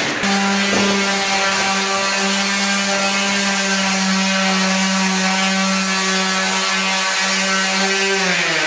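Electric power-tool motor running at a steady pitch, then winding down near the end.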